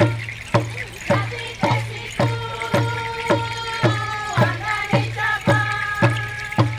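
Traditional Papua New Guinean song and dance music: a group of voices singing long held notes over a steady beat of drums, struck about twice a second.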